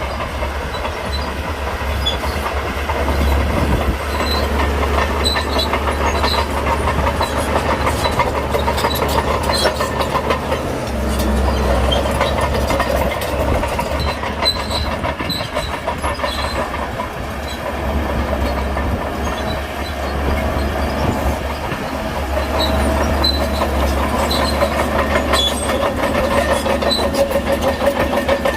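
Crawler bulldozer working: the diesel engine runs steadily under load while the steel tracks clank and rattle without a break.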